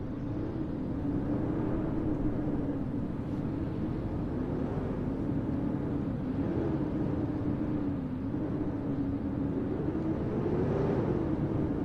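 Steady low rumble of snowstorm city ambience, wind and traffic, with a humming tone that wavers slightly in pitch and swells a little near the end.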